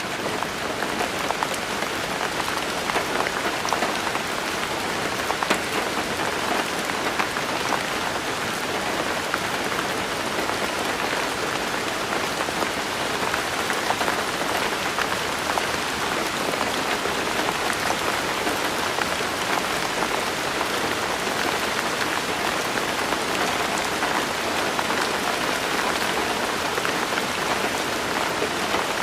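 Steady rain falling, with many small drop impacts patting on a surface.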